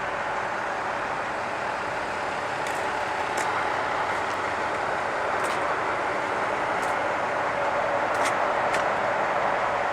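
Steady vehicle noise with a constant hum, and a few short high ticks scattered through it.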